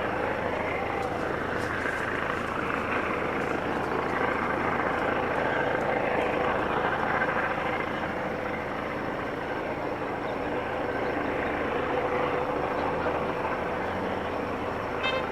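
Police helicopter droning steadily in flight, its rotor and engine noise holding at a fairly even level with a steady hum through it.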